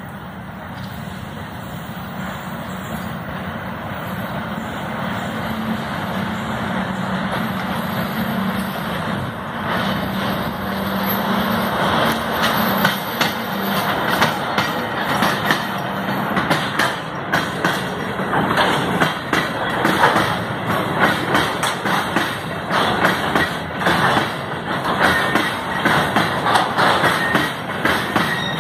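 TGM8KM diesel-hydraulic locomotive passing close by: its engine drone grows louder over the first half. Then loaded tank cars roll past with a dense clatter of wheels on the rails, getting louder toward the end.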